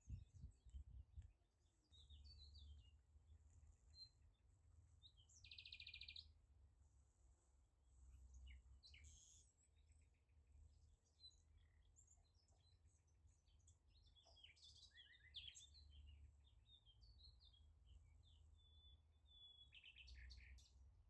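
Near silence with faint bird chirps and short trills scattered throughout, over a low rumble, with a few soft knocks in the first second.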